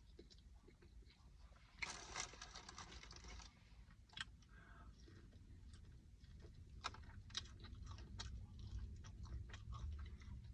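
Close-up eating sounds: chewing with small wet clicks and crunches. A longer crackling burst comes about two seconds in.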